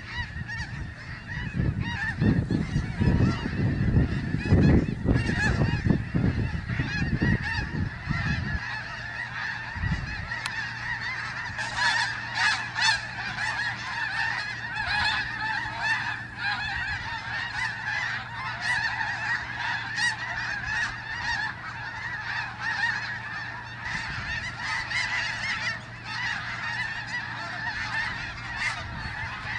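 A large flock of snow geese calling continuously, a dense overlapping chorus of honks. Heavy low rumbling thuds sound over it for the first eight seconds or so, then stop.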